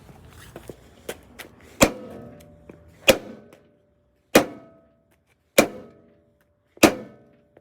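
Five heavy hammer blows on a dehumidifier, evenly spaced a little over a second apart, each with a brief ringing after it, and a few lighter knocks before them.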